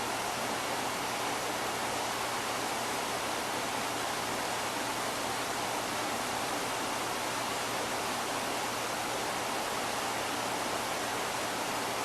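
Steady, even hiss of background noise, unchanging in level, with no distinct events.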